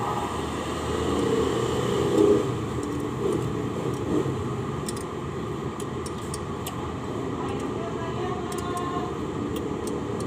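Steady background hum of traffic and distant voices, with scattered light clicks from hand tools working on the engine, mostly in the second half.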